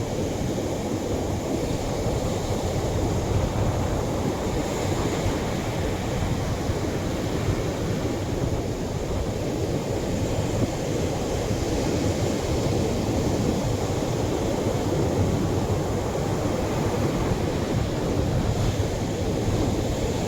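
Atlantic surf breaking on a beach in a continuous wash of waves, the hiss swelling briefly a few seconds in and again near the end.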